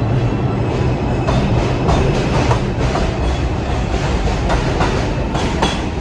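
R142-series New York City subway train running on the rails: a steady low rumble with wheels clicking over rail joints several times.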